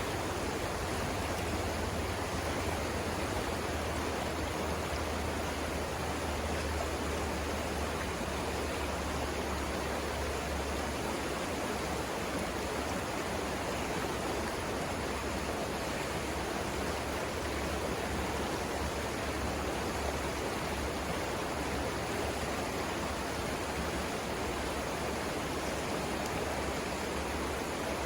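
River water rushing over rapids: a steady, even rush with no breaks. A low rumble runs underneath and is stronger for roughly the first ten seconds.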